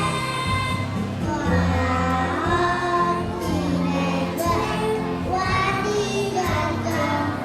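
Children singing a song together over instrumental accompaniment with steady sustained bass notes.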